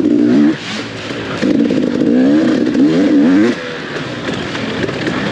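Off-road dirt bike engine revving in surges, its pitch climbing repeatedly as the throttle is opened, then dropping back to quieter running between bursts.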